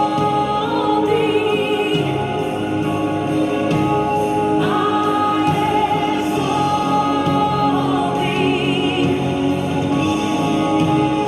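Music: a choir singing a gospel worship song in long held notes, some with vibrato.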